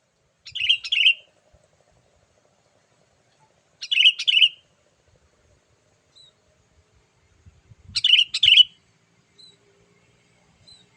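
Sooty-headed bulbul (kutilang) song: three short, bright phrases of a few bubbling notes each, about four seconds apart, with faint single chirps between them.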